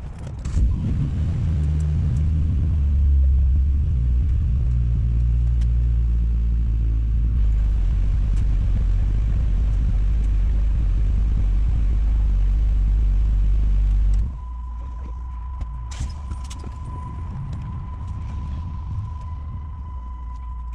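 Dodge Caliber SRT-4's turbocharged 2.4-litre four-cylinder with a catless downpipe, a loud, deep, steady exhaust drone while driving. About 14 seconds in it drops suddenly to a much quieter rumble with a thin, steady high tone over it.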